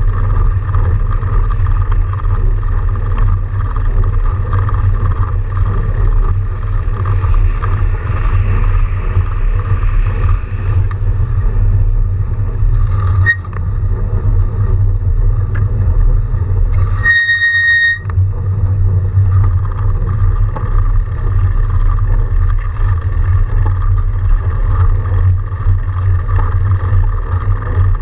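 Steady low rumble of riding noise and wind on the microphone while an electric-assist fat bike is ridden. A short high beep sounds for about a second roughly two-thirds of the way through.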